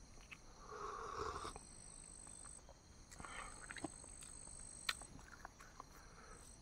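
Faint chewing and small mouth clicks of someone eating boiled eggs, with one sharper click near five seconds. Behind them runs a steady high-pitched insect trill that stops and starts.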